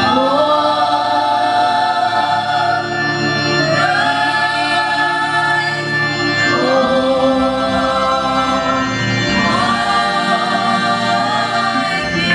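A choir singing a gospel hymn in four long held phrases over steady sustained accompanying chords.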